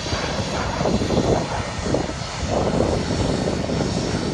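Airliner engines running close by: a loud, steady rush of engine noise with a deep rumble underneath.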